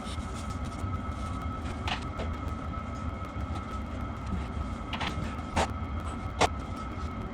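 Steady workshop hum with a low rumble and a thin high tone, broken by four short, sharp clinks or knocks about two, five, five and a half and six and a half seconds in; the last is the loudest.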